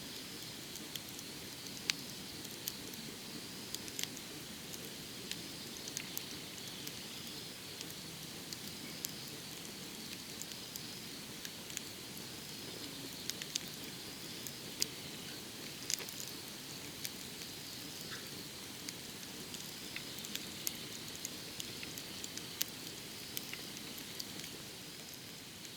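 Firewood burning in a fire pit, crackling with frequent irregular sharp pops over a steady hiss.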